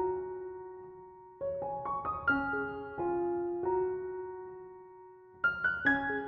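Background piano music: a short phrase of a few notes struck one after another and left to ring and fade, with a new phrase starting about every four seconds.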